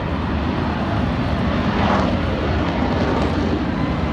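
Jet aircraft engine noise: a loud, steady rushing sound without breaks.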